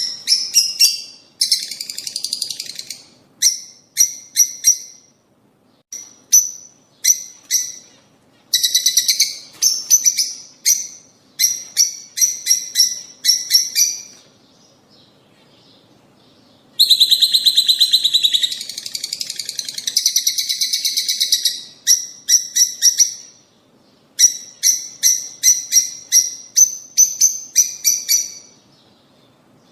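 Lovebirds (peach-faced and Fischer's) calling: quick runs of sharp, high chirps. Two stretches of rapid, continuous chattering break in, a short one near the start and a longer one after a brief pause past the middle.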